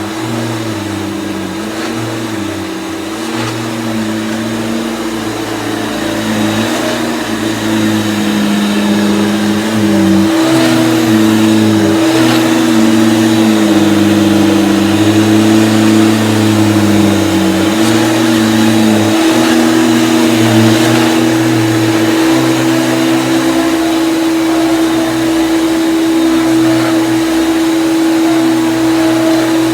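Vintage Hoover vacuum cleaner running with its belt-driven power head, a used belt just fitted: a steady motor hum with lower tones that waver up and down as it is worked, growing louder about ten seconds in.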